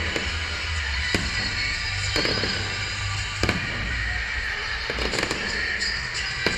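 Fireworks bursting in a string of sharp bangs, roughly one a second, with two close together about five seconds in, over music playing underneath.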